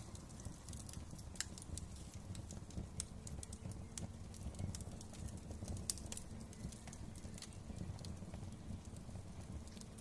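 Wood fire crackling in a fireplace: irregular small pops and snaps over a low, steady rumble of the flames, with one sharper snap about six seconds in.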